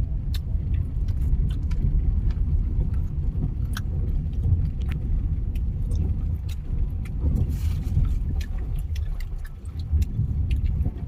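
A car being driven, with a steady low rumble from the road and engine and frequent small clicks and rattles, like keys or loose items jingling.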